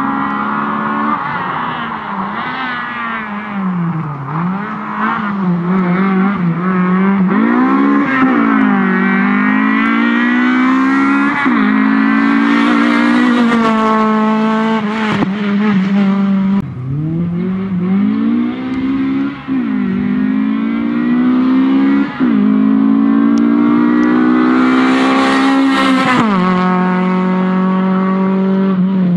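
Honda B18C4 1.8-litre DOHC VTEC four-cylinder in a Civic, driven hard. Its note repeatedly climbs high in pitch and falls away as the car accelerates and slows, with several sudden drops at gear changes or lifts off the throttle.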